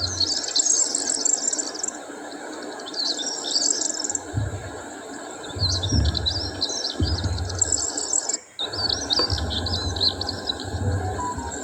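Small birds chirping and twittering in quick, overlapping high phrases, with a low rumble coming and going underneath from about four seconds in and a brief drop-out in the sound past the middle.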